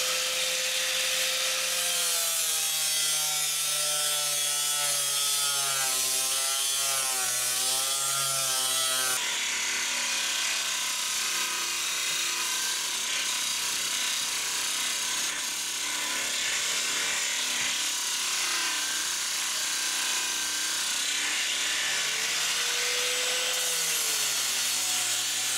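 Angle grinder grinding into a fiberglass hull's gel coat to trace a crack, a steady abrasive hiss over a motor whine that dips and wavers as the disc is pressed into the surface.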